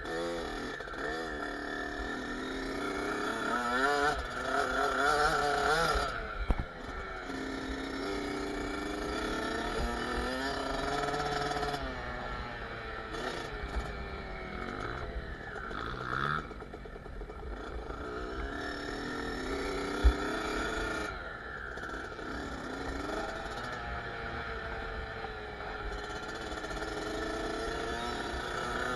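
Kawasaki KX65's 65cc two-stroke single engine revving up and down as the dirt bike is ridden, its pitch rising and falling again and again.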